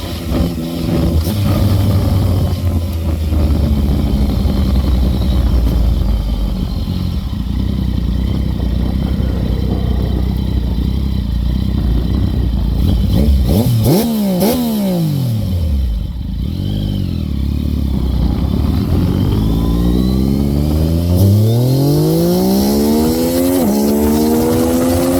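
Yamaha MT-09 inline-three engine through a custom exhaust (stock headers into a looped pipe and a cheap muffler repacked with stainless steel wool), heard while riding. It runs at a steady cruise, then gives a quick rev that falls away about halfway through, then pulls through the gears with the pitch climbing and dropping at two upshifts near the end.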